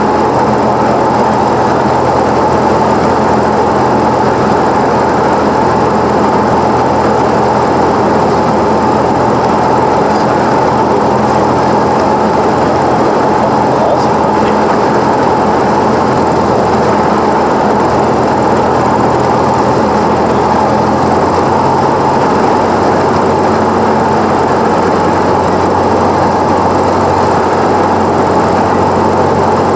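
Cessna 172's piston engine and propeller droning steadily, heard loud and unbroken. About two-thirds of the way through the low note drops slightly, a small change in engine power.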